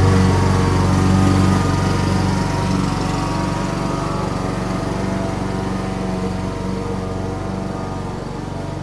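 Lawn mower engine running steadily as it cuts grass, growing gradually quieter as it moves away.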